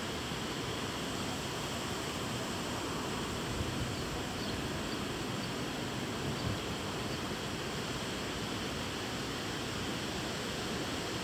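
Steady rain falling during a storm: an even hiss that does not let up.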